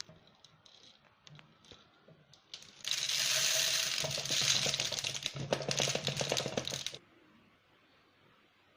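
Bird-feed grains poured into a container: a few light clicks, then about four seconds of a dense rush of tiny grain clicks that stops suddenly.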